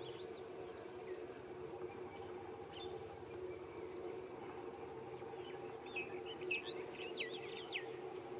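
Birds chirping in short, quick calls, with a cluster of them about six seconds in, over a faint steady hum.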